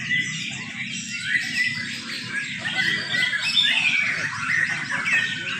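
Several young white-rumped shamas (murai batu) singing at once, a dense tangle of overlapping whistles and chirps, over a low steady background noise.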